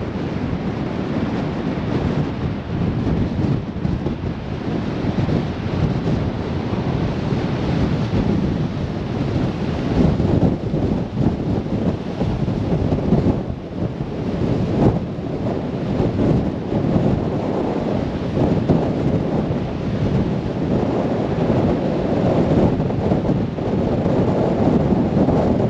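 Strong blizzard wind blowing across the microphone, a continuous rushing noise that rises and falls in uneven gusts.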